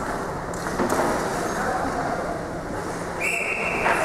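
Referee's whistle blown once in a hockey game, a single steady shrill blast lasting under a second near the end, over the rink's background noise.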